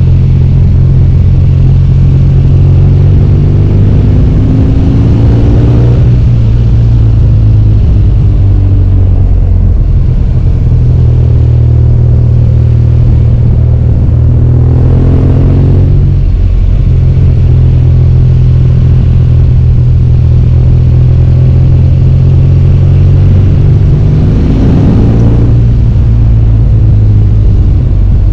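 BMW R1200GS Adventure's boxer twin running hard on the road, loud and steady. Its pitch climbs under acceleration three times, about five, fifteen and twenty-five seconds in, and drops back after each.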